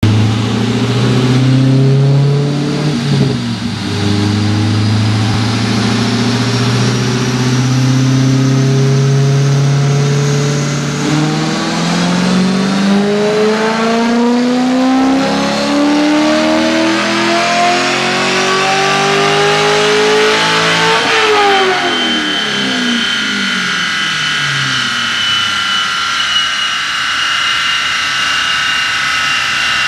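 C5 Corvette Z06's 5.7-litre LS6 V8, fitted with an MTI X1 cam, Kooks long-tube headers and B&B Bullet exhaust, making a chassis dyno pull: it runs steadily at low revs for about ten seconds, then rises in pitch under full throttle to about 6800 rpm, then the revs fall away sharply as the throttle closes. A high whine lingers afterwards, slowly falling in pitch.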